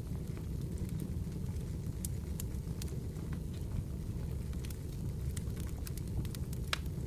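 Fireplace crackling: irregular sharp pops and snaps over a steady low rumble of burning.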